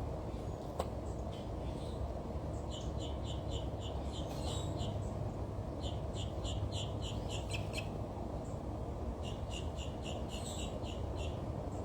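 A small bird chirping in three quick runs of short, high notes, about four or five a second, over a steady low background rumble.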